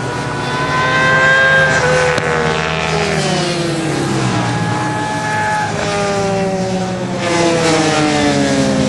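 Supersport racing motorcycles going by on the track at high revs, their engine pitch rising as they approach and dropping away as they pass; several bikes overlap, one after another, over a steady distant engine drone.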